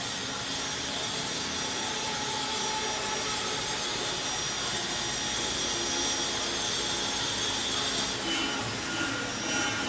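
CNC stone-carving machine running, its spindle giving a steady high whine over a grinding hiss as it carves. The high whine drops away about eight seconds in.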